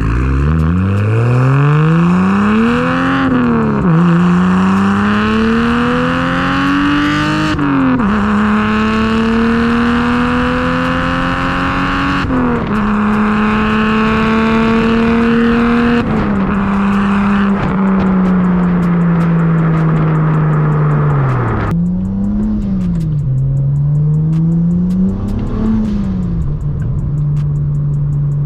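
Single-turbo BMW N54 straight-six on a 3-inch resonated single-exit exhaust with no muffler, accelerating hard through the gears: three pulls rise in pitch, each dropping sharply at an upshift. It then holds a steady cruise, falls away as the car slows, and is revved up and back twice near the end.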